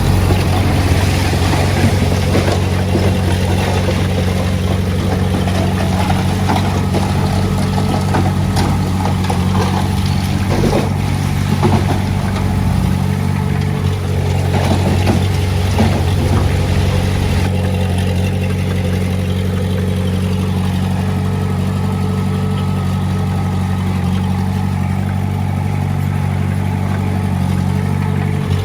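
Heavy-equipment diesel engine running steadily, with extra clatter and rumble in the first half that eases off about two-thirds of the way through.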